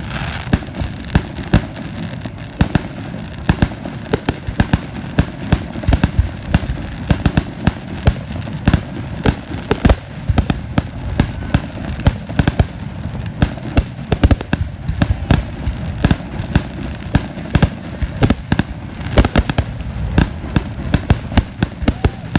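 Fireworks going off in a dense, irregular barrage: several sharp bangs a second over a continuous low rumble.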